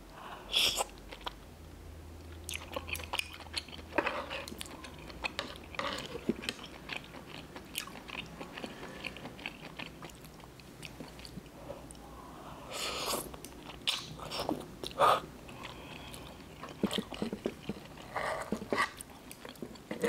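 Close-miked chewing of spicy Korean instant noodles and tteokbokki rice cakes in a creamy cheese sauce, with wet mouth clicks and smacks coming in short irregular bouts.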